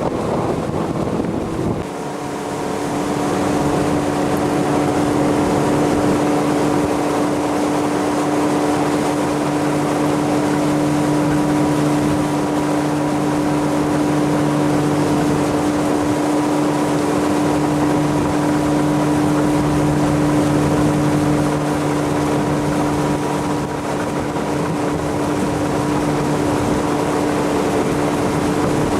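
Motorboat engine running steadily at cruising speed, its note dropping slightly about two seconds in and then holding even, over a steady rush of wind and water.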